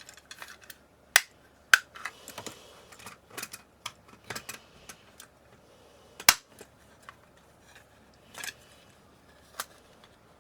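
Irregular sharp clicks and knocks of hard plastic parts, a few loud snaps among lighter tapping, as the clip-together plastic casing of an LED camping light is worked apart.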